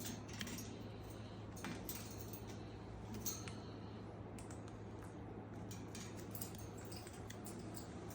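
Scattered light clicks and small metallic clinks and jingles, like a parrot's toys being handled, over a steady low hum.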